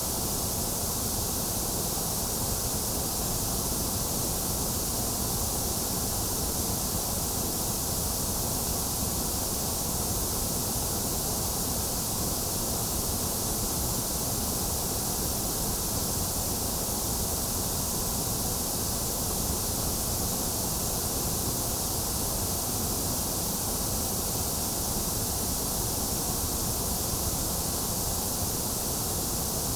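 Steady electronic white noise for lulling a baby to sleep: an unbroken hiss with no changes, bright in the high end, full in the low end, and thinner in the middle.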